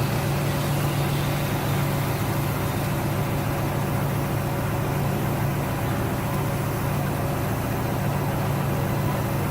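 Turbocharged Subaru WRX STI flat-four running at a steady, unchanging speed, heard from inside the car.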